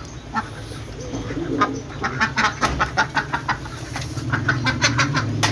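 Domestic poultry calling in quick runs of short notes, with a sharp click near the end.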